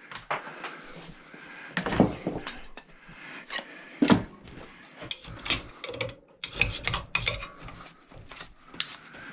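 Hand tools clinking, knocking and scraping on the metal of a small electric motor as it is pried apart, with irregular sharp clanks over a rough scraping.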